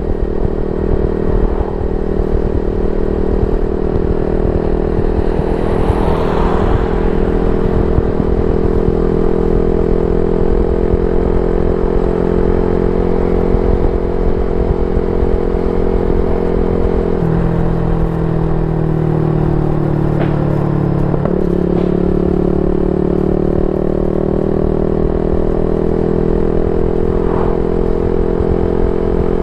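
Yamaha Y15ZR's 150cc single-cylinder four-stroke engine running through a YYPANG SD3 aftermarket exhaust, holding a steady note. About two-thirds of the way through the note dips, drops again, then slowly climbs back up.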